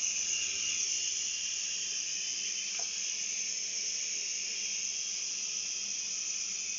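Syma S5 toy coaxial helicopter's small electric motors and rotor blades spinning, a steady high whirring buzz.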